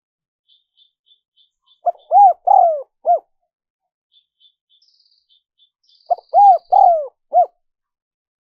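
Spotted dove cooing: two phrases of four notes each, a few seconds apart. Faint high chirps of a small bird come between the phrases.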